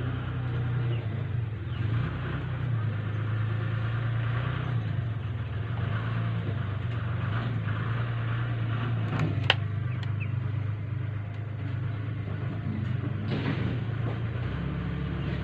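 A steady low mechanical hum, like a motor running, with one sharp click about nine and a half seconds in.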